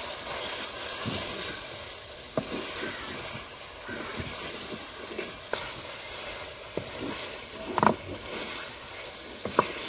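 Chicken and spices frying in oil in an aluminium karahi, sizzling steadily as a wooden spoon stirs them, with the spoon scraping and knocking against the pan now and then.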